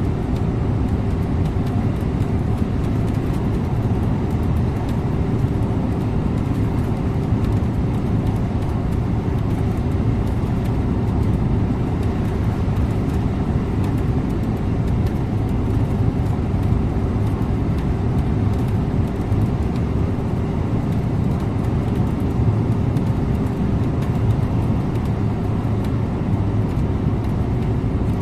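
Scania InterLink bus driving along at a steady pace: an even low rumble of engine and tyre noise that holds without change.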